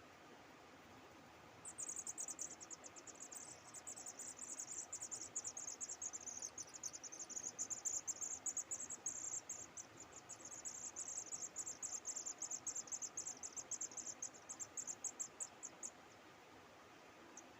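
A high-pitched insect trill made of rapid, evenly repeated pulses. It starts about two seconds in, runs steadily for about fourteen seconds, and stops abruptly, over faint background hiss.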